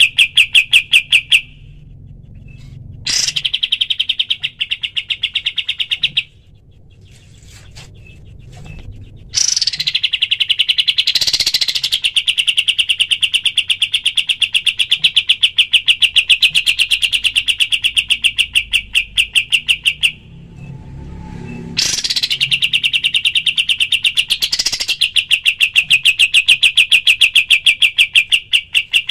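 Kapas tembak (olive-winged bulbul) giving its rapid 'tembakan' song: long runs of fast, evenly repeated sharp notes, broken by short pauses about 1.5, 6 and 20 seconds in.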